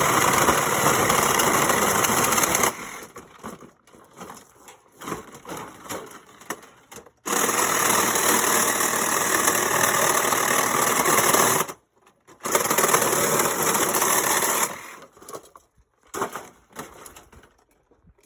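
Power saw cutting through the bottom of a dishwasher in three long runs of about 3, 4 and 2 seconds. Between the runs there are short pauses with bits of rattling and knocking.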